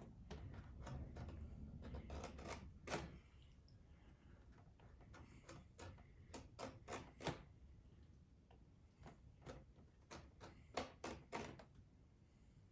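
Faint, irregular clicks and taps of hand work on leather at a saddle, some coming in quick little runs, over a low rumble during the first three seconds.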